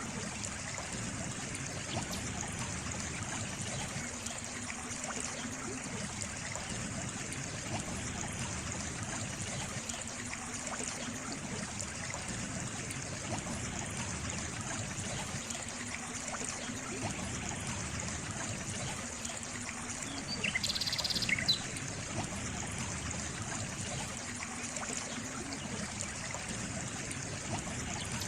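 Stream water trickling steadily, with a short bird call about three-quarters of the way through.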